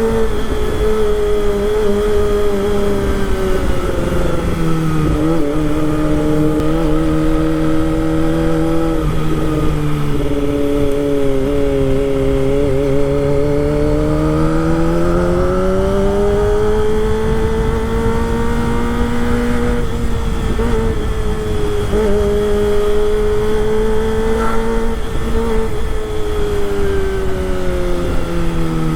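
Kawasaki Ninja ZX-25R's 250 cc inline-four engine running under way, its pitch sliding down and climbing back up several times as the throttle is opened and eased, with a steady low rumble beneath.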